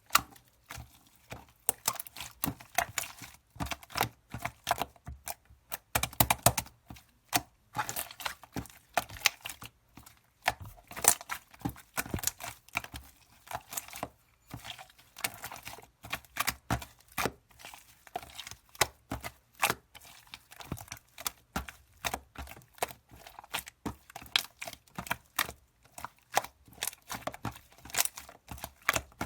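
Pink slime being worked by hand, giving off irregular sharp clicks, pops and crackles several times a second, with a few short pauses. The uploader says this batch turned out badly and is very hard to handle.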